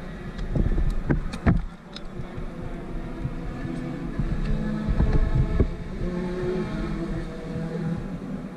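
Superkart engine running steadily, with several loud knocks about a second in and again around five seconds in.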